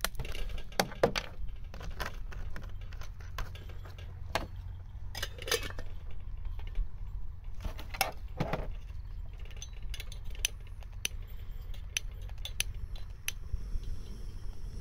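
Scattered light clinks, taps and knocks as a metal camp pot and gas-canister stove are handled, a few with a short metallic ring, over a steady low background rumble.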